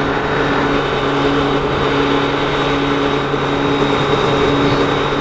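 Suzuki Hayabusa's inline-four motorcycle engine running at a steady, unchanging speed, with a haze of wind or road noise over it.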